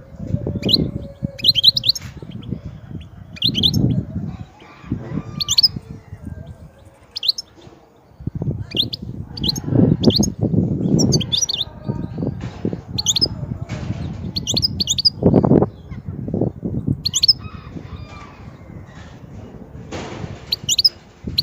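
European goldfinch singing: short, high twittering phrases that come every second or two. Bursts of low rumbling noise sit underneath the song.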